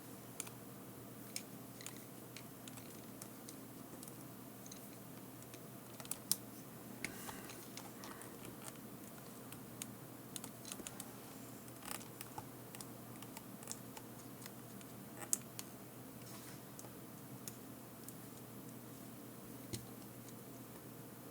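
Irregular small clicks and taps from handling tools, wires and small headset parts on a workbench during soldering, over a faint steady background hum.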